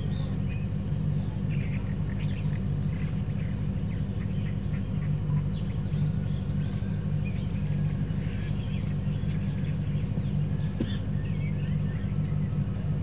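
Birds chirping and calling in short rising and falling notes, over a steady low hum.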